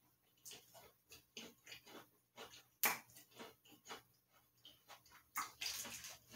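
Close-up chewing of a white-fudge-covered Oreo: irregular crisp crunches, the sharpest about three seconds in. Near the end a longer crackling rustle as a hand reaches into the plastic cookie tray.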